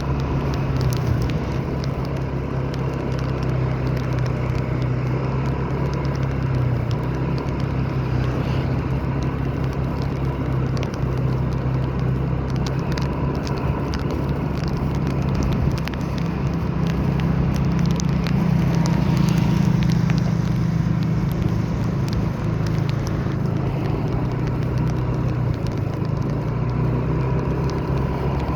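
Vehicle driving with a steady low engine and road drone that swells and shifts in pitch about two-thirds of the way through, overlaid with light crackling ticks like rain hitting the vehicle.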